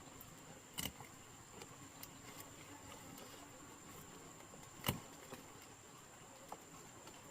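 Faint steady high-pitched chirring of insects, likely crickets, with a few scattered clicks and one sharper knock about five seconds in.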